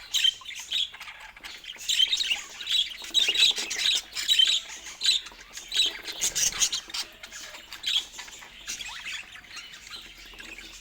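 Budgerigar chattering: a quick, uneven run of short high chirps and squawks, several a second, with brief pauses between bursts.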